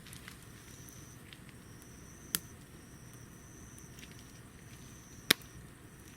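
Wood burning in a small homemade wood stove, a steady low hiss broken by two sharp pops from the burning wood, about two and a half and five seconds in.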